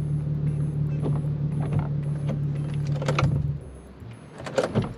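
2004 Infiniti G35 coupe's V6 engine idling steadily, then switched off about three and a half seconds in, with a few clicks around the shutdown. The car is being turned off to reset something the driver fears he broke.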